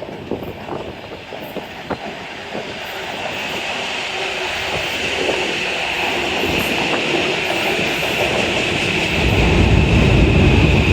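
Metro-North train approaching and passing on elevated track, getting steadily louder, with clicks from the rails early on, a steady high-pitched wheel squeal from about three seconds in, and a heavy low rumble near the end.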